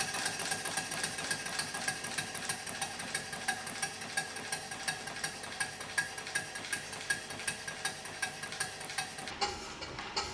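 Model traction engine running on live steam, its exhaust beats coming in a fast, even rhythm. About nine seconds in the sound cuts to a quieter, slower beat.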